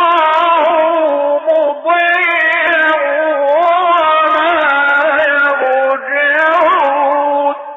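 A male reciter chanting the Qur'an in the melodic mujawwad style, with long ornamented held notes and two short breaks for breath. The voice stops just before the end.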